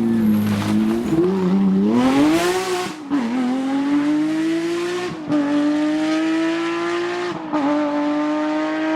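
Porsche rally car's flat-six engine under hard acceleration: the revs dip and rise in the first two seconds, then climb steadily through the gears with quick upshifts about three, five and seven and a half seconds in, the pitch dropping at each shift and rising again.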